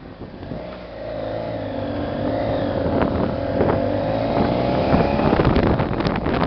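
Motorcycle engine running while riding, its pitch rising gently and the level building over the first two seconds, with wind buffeting the microphone.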